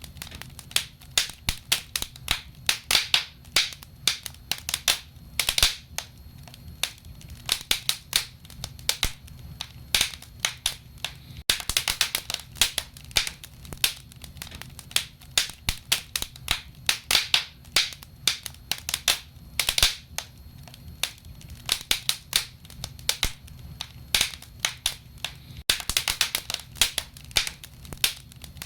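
Wood fire crackling in a fireplace, with irregular sharp pops and snaps several times a second over a low steady hiss.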